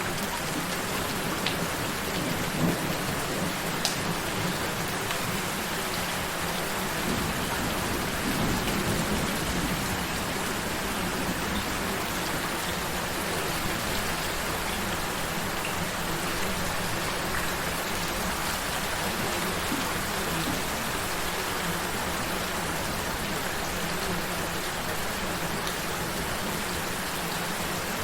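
Steady rain falling, with a few sharper drops early on and a low rumble of thunder swelling about eight seconds in. A faint steady low tone, the mixed-in frequency, runs underneath.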